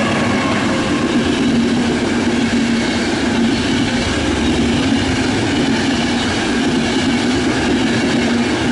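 Intercity passenger coaches running through a station at speed: a steady, loud rumble and rattle of wheels on rails as the carriages pass close by.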